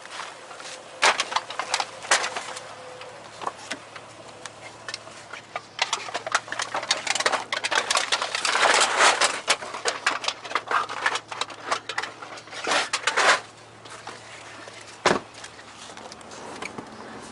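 Plastic trash bags holding cans being handled and rummaged through: irregular rustling with many sharp clicks and clinks, thickest in the middle, and a single thump near the end.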